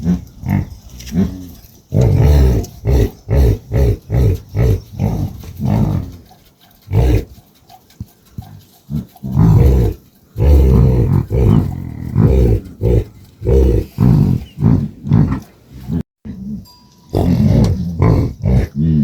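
An animal grunting and growling in many short, low-pitched bouts with brief pauses between them.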